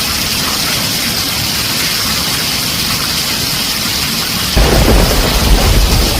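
Heavy rain falling on a tin roof, a steady hiss. About four and a half seconds in, a deep rumble of thunder comes in suddenly and keeps going.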